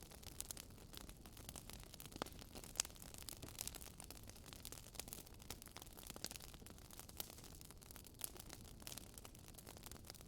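Wood fire crackling: irregular sharp pops and snaps over a faint hiss, with a louder pop a little under three seconds in.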